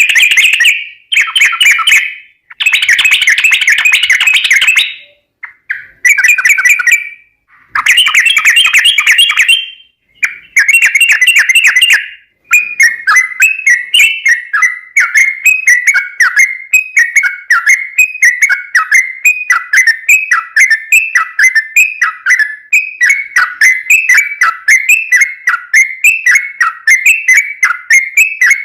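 Yellow-vented bulbul (trucukan) singing loudly: first a run of fast, chattering bursts a second or two long with short pauses between them, then from about twelve seconds in a continuous string of quick, bubbly, falling phrases.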